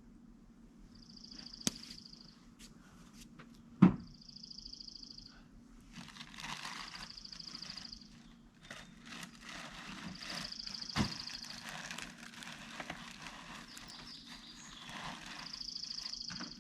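Kindling and small sticks on a freshly lit campfire, with scattered cracks and knocks as it is tended; the sharpest knock comes about four seconds in. A short, high, pulsing buzz of about a second repeats every few seconds behind it.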